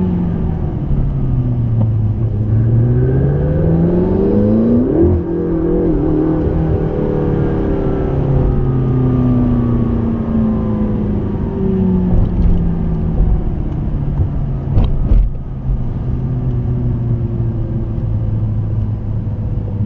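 McLaren 650S twin-turbo V8 driving on track. The engine note drops, rises steeply under acceleration about three to five seconds in, then falls away gradually, with a few sharp knocks late on.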